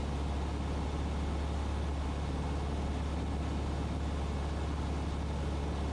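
Cessna 150's Continental O-200 four-cylinder engine and propeller droning steadily in the cockpit: an even, unchanging hum with a strong low rumble.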